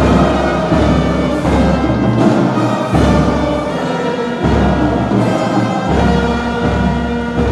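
Orchestral music with brass, strings and timpani playing sustained chords over low drum rolls.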